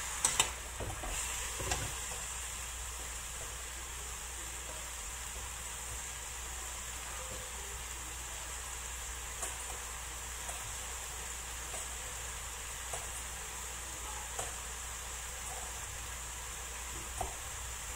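Bell pepper, mushrooms and carrots sizzling in oil in a wok, a steady hiss with scattered faint pops. A metal spatula knocks and scrapes against the pan a few times in the first couple of seconds.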